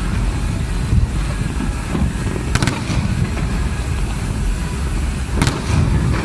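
Fireworks going off: a steady low rumble of booms with two sharp cracks, one about halfway in and one near the end.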